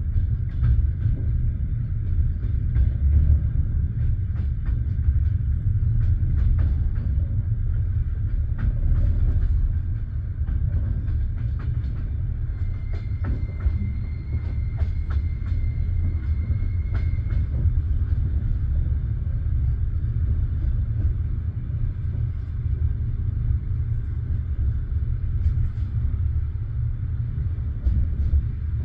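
Railway train rumbling along the track, with sharp wheel clicks over rail joints through the first half and a steady high-pitched squeal lasting about five seconds in the middle.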